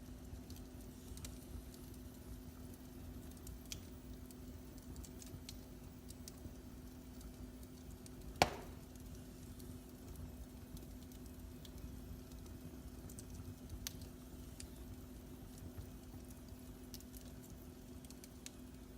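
Wood fire in a fireplace crackling faintly, with scattered small pops and one sharp, loud pop a little past eight seconds in, over a steady low hum.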